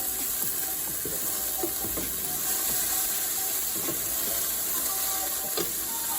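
Chicken pieces sizzling in a frying pan, with a steady hiss and many short clicks and scrapes as a utensil stirs and knocks the chicken against the pan.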